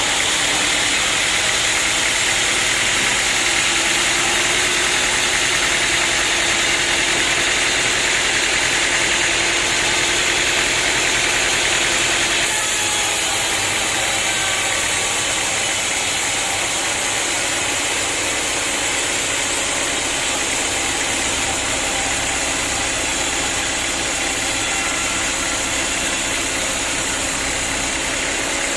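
Sawmill engine running steadily while the saw cuts through a large acacia log. About twelve seconds in, the higher cutting hiss drops away and the engine keeps running.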